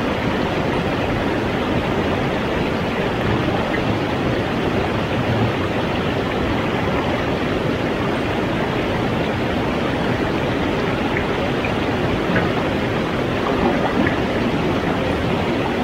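Steady rushing of river water, a loud, even noise with no break or change.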